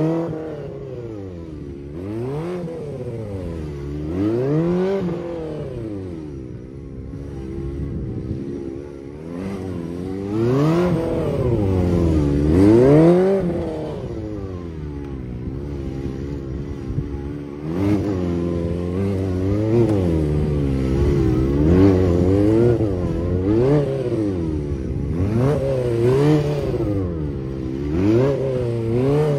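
Suzuki GSX-R750's inline-four engine revving up and dropping back again and again, short bursts of throttle every second or two as the motorcycle is ridden through tight turns around cones.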